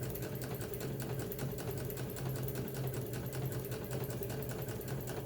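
Baby Lock Ellure computerized sewing machine running steadily at speed, sewing an overcasting stitch: an even motor hum under a rapid, regular ticking of the needle mechanism.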